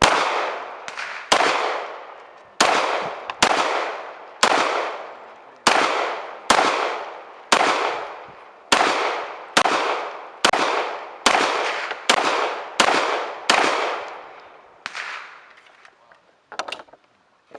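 Gunfire: a steady string of about seventeen single shots, roughly one a second, each followed by a long echoing decay, with the last few shots slower and spaced further apart.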